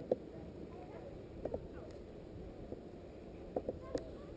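Honey bees humming around an open hive, with a few light clicks and knocks from the hive being worked, one near the start and a quick cluster near the end.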